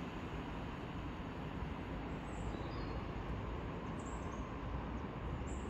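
Steady low rumble of railway station ambience, with a few brief high bird chirps about two and a half, four and five and a half seconds in.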